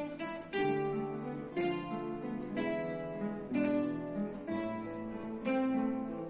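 Ensemble of acoustic guitars playing, with strong strummed chords about once a second over plucked notes.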